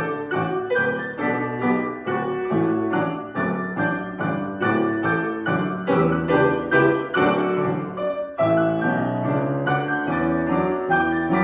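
Piano playing a classical piece: a continuous run of struck notes and chords, about three to four a second, with a brief break about eight seconds in before the next phrase.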